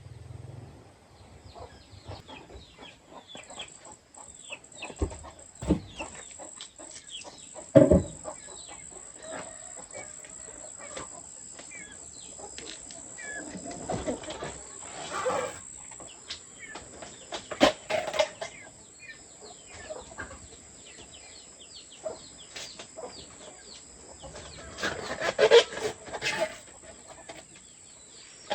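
Chickens clucking and calling on and off, with a few sharp knocks in the first part and a steady high thin whine underneath.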